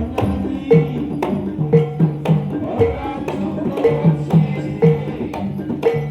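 Gamelan music accompanying an ebeg (jaranan) horse dance: sharp percussive strokes about twice a second over a repeating pattern of struck pitched notes.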